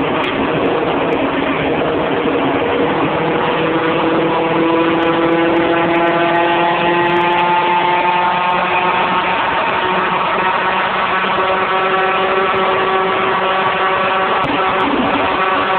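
Honda K20A 2.0-litre inline-four in a Civic EG6, heard from inside the cabin, pulling hard at high speed with wind and road noise underneath. Its pitch rises slowly for about the first half, then holds steady, with a brief break in the note about a second before the end.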